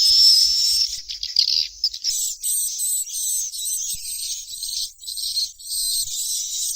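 Swiftlet chicks calling: a dense, high-pitched chorus of twittering cheeps, almost unbroken, with short dips in level.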